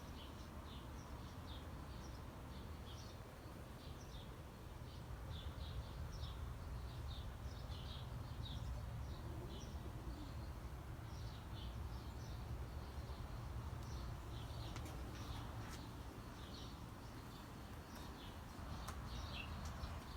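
Small birds chirping over and over, faint, over a low steady background rumble.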